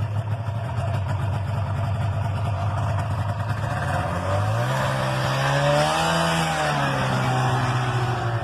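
Snowmobile engine running steadily, then revving up about halfway through and easing back down to a steady run.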